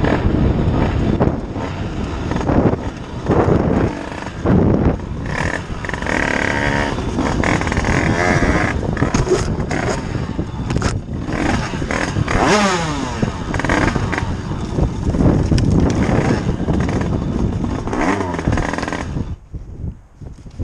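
Motorcycle engine running and revving under road and wind noise, with the revs falling away around the middle. It goes quieter near the end.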